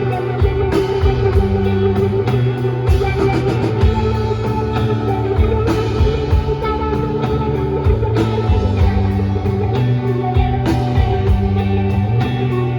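Live rock band playing an instrumental passage, with electric guitar over bass and drum kit. Recorded from the audience.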